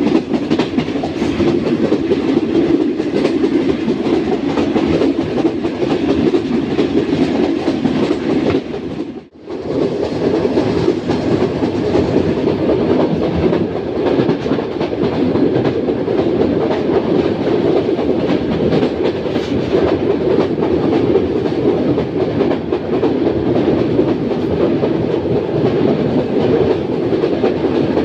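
Track rumble of a passenger train running at speed: steady, loud wheel-on-rail noise. The sound briefly cuts out about nine seconds in, then carries on.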